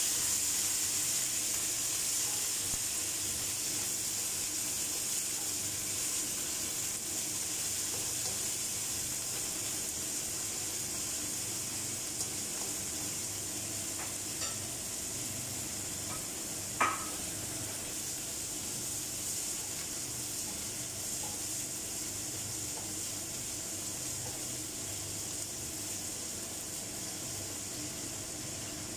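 Shrimp frying in oil in a nonstick pan, a steady sizzle that slowly dies down, stirred with a spatula at first. A single sharp knock about 17 seconds in.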